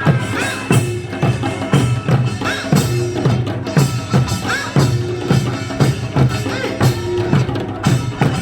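Korean folk music with drums and percussion beating a steady, repeating rhythm, and short rising-and-falling melodic phrases over it.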